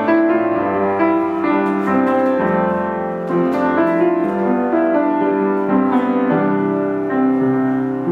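Piano playing slow, sustained chords, the notes changing every second or so.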